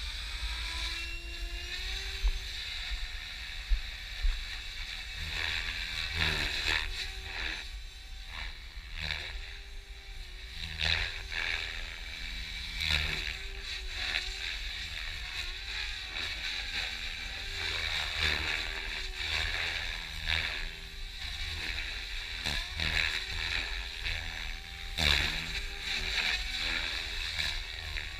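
Compass EXO 500 electric RC helicopter in flight: a high whine from the electric motor and drive over the rotor blades, whose pitch glides up and down, with repeated whooshing swells of blade noise every few seconds during 3D manoeuvres.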